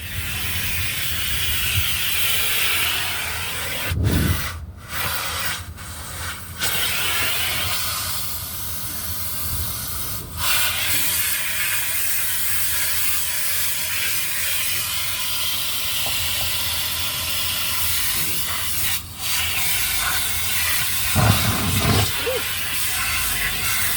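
Steady loud hiss of car wash jets, water spray or drying air, playing on a car, with a few short breaks and a couple of low thuds.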